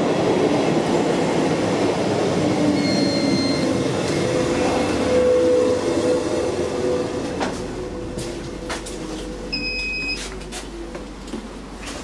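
A train running past on the tracks: a loud rumble with a steady squealing tone for a few seconds, dying away after about seven seconds. Later a short electronic beep and a few sharp clicks.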